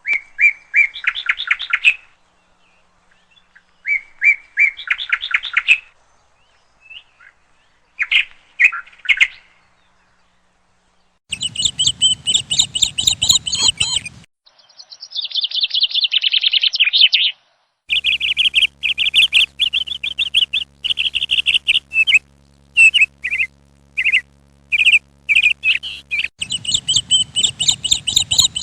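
A bird chirping and twittering in short, rapid phrases, one to two seconds each with brief pauses between them. In the second half the chirps come almost without a break, some stretches over a low rumble.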